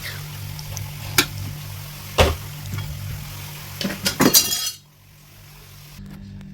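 Dishes and containers clinking and knocking as they are handled in a refrigerator: a sharp knock about a second in, another about two seconds in, then a quick run of clinks before the sound drops off suddenly. A low steady hum runs underneath.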